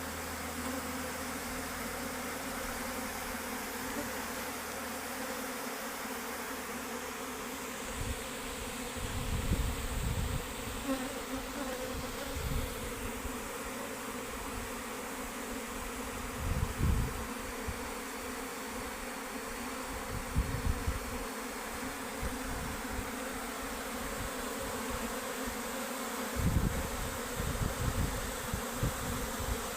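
Mass of honeybees buzzing in a steady, dense hum, the sound of a colony leaving its hive. Several brief low rumbles break in along the way.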